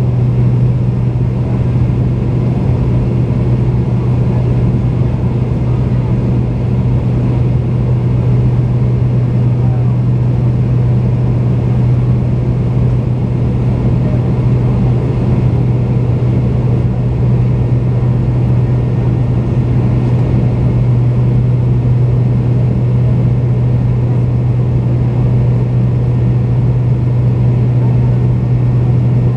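Steady cabin drone of a McDonnell Douglas MD-88 airliner in flight, its rear-mounted Pratt & Whitney JT8D turbofans running. A strong, constant low hum sits under an even rushing noise.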